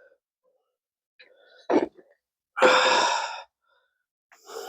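A short sharp knock, then a loud breathy exhale lasting about a second, like a sigh.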